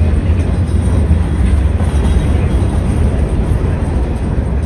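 Covered hopper cars of a freight train rolling past, a steady low rumble of steel wheels on the rails.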